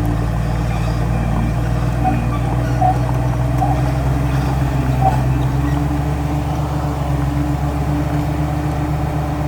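Heavy diesel engine running steadily at an even speed, with a few faint clinks over it.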